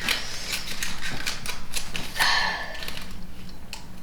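Origami paper being folded and creased by hand: a run of crisp crinkles and clicks, with a longer rustle about two seconds in.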